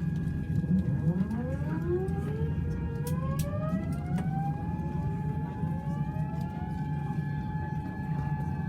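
Airliner jet engine spooling up during start: a whine rises steadily in pitch from about a second in and levels off about five seconds in, over a steady low rumble and a steady high tone.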